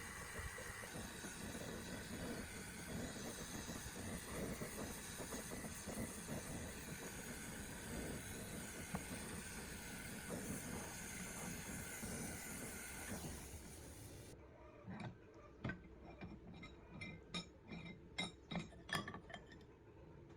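A steady running noise with a few faint steady tones, which cuts off about fourteen seconds in; then a series of light, sharp clinks, like small hard parts being handled and set down.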